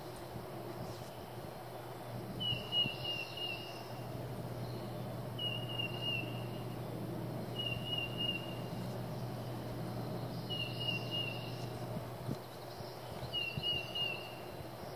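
A songbird repeats a short, slightly falling phrase five times, one every two to three seconds, over a steady low hum and outdoor background noise.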